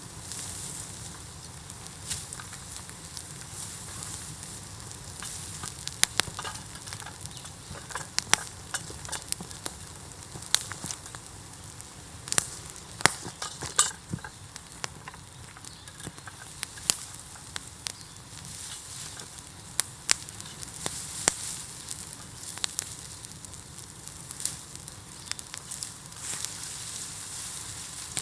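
Pile of bamboo burning in a bonfire: a steady hiss with irregular sharp crackles and pops, some much louder than the rest.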